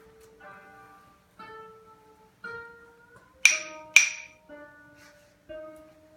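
Background music of a plucked string instrument: single notes about one a second, with two sharp, much louder chords about three and a half seconds in, half a second apart.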